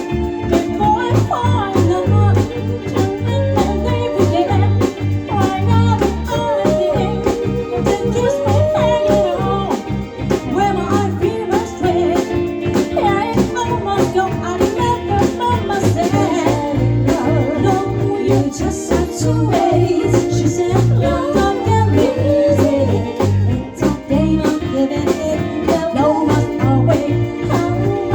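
Live band playing an instrumental passage of a soul-blues number: drums keeping a steady beat under a pulsing bass line, with a lead line of bending, sliding notes on top.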